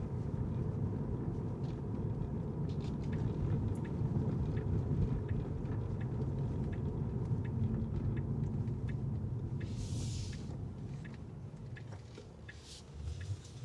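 Car driving on city streets: a steady low rumble of road and engine, with light regular ticks over it. There is a short hiss about ten seconds in and another soon after, and the rumble fades near the end.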